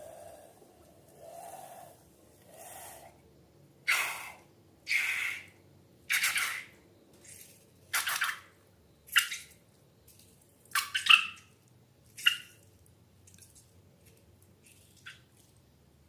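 Wet slime squelching and squishing in a series of short separate squelches, roughly one a second, the loudest in the middle, trailing off into small faint squishes near the end.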